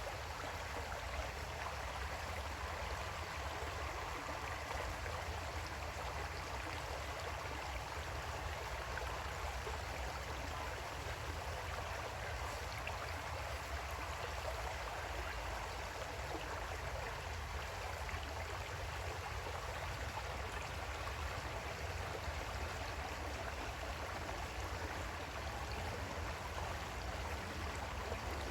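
Creek water flowing steadily over rocks, an even rushing and gurgling with a low rumble underneath.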